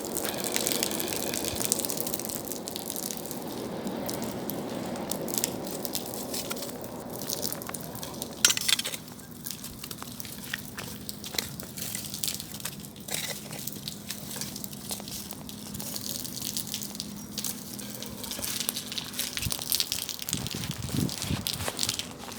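Bonfire burning: wood crackling and popping over a steady rushing of flames, with one sharp loud pop about eight seconds in.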